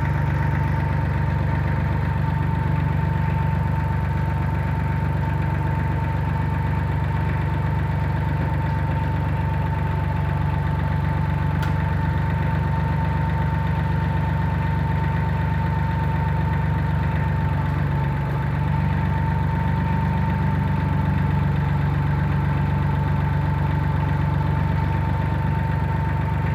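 Sonalika tractor's diesel engine idling steadily, with a steady high whine over the engine note.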